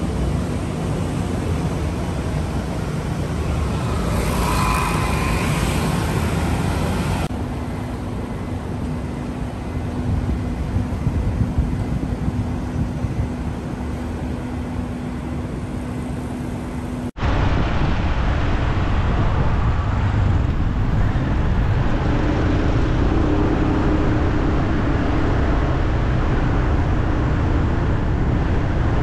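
Steady road traffic noise, an even rumble of passing vehicles. It breaks off for an instant about two-thirds of the way through and then carries on.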